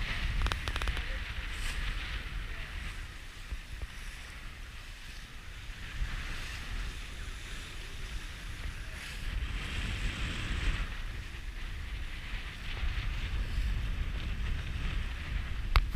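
Strong wind buffeting the microphone on a sailboat heeling in about 35 knots, with a steady low rumble, and water hissing and rushing past the hull that swells twice, about ten seconds in most strongly, as waves go by.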